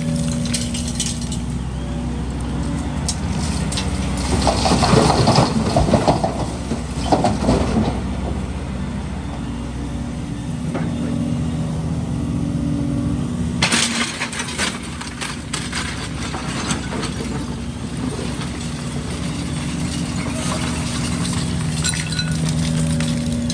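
Heavy diesel excavator engine running steadily while concrete rubble crashes and clatters, loudest about four to eight seconds in, with lighter clattering again a little past halfway.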